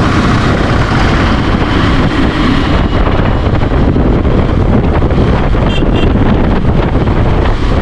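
Steady wind buffeting on the microphone of a KTM 390 Adventure at riding speed, with the bike's engine and road noise underneath.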